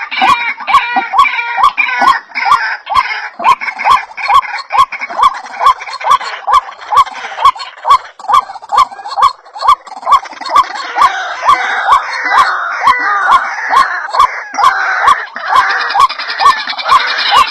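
White-breasted waterhens calling: a run of short, harsh, repeated notes about twice a second, over a dense chorus of overlapping calls, as used for a ruak-ruak lure call.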